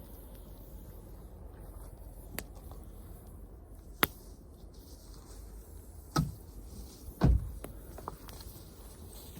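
Wood fire burning, with a few sharp pops and two heavier knocks about six and seven seconds in, the second the loudest.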